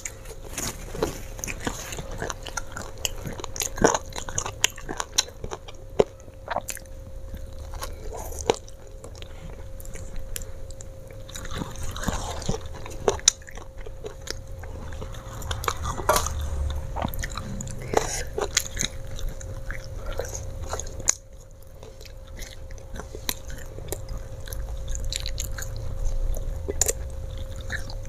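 Close-up mouth sounds of chewing and biting flour-coated fried potato sticks, with sharp crunches scattered irregularly. The sticks are somewhat hard rather than crisp.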